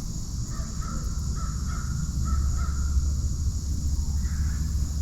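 A bird calling outdoors: a quick run of about six short notes, then one more call near the end, over a steady high insect drone and a low rumble.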